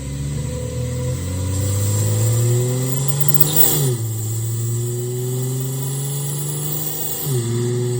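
2010 Ford Fusion Sport's 3.5-litre V6 heard through its intake, revved slowly upward, then dropping back sharply just before halfway. It settles to a steady idle, with one quick blip of the throttle near the end.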